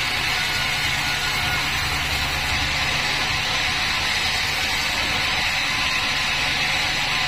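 Band sawmill running steadily while sawing a mahogany log, a constant hissing machine noise with a low hum that weakens about three seconds in.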